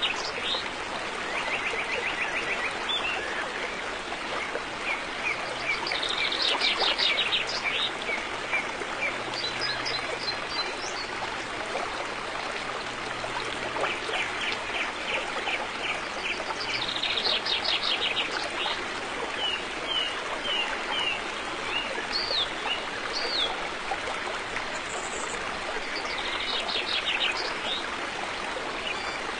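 River water flowing steadily, with birds singing over it: bursts of rapid trills come every several seconds, and a run of short separate chirps falls near the middle.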